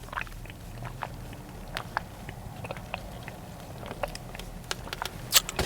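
Close-up mouth and chewing sounds: soft, scattered clicks, with a louder cluster near the end.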